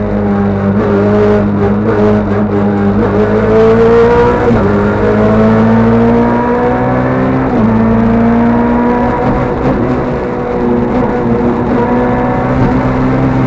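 Rally car engine heard from inside the cabin, accelerating hard through the gears: its pitch climbs, drops sharply at an upshift about four and a half seconds in and again about seven and a half seconds in, then climbs steadily once more.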